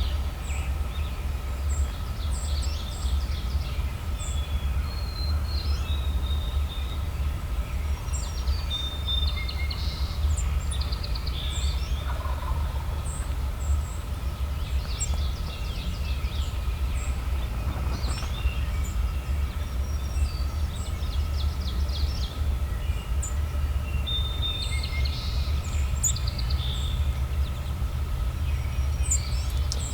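Wild turkey gobbler gobbling at a distance, mixed with songbirds chirping and calling, over a steady low rumble.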